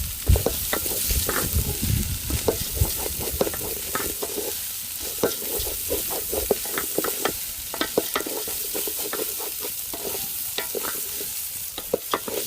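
Food frying in a pot with a steady sizzle, and frequent irregular scrapes and knocks of a spoon stirring against the pot.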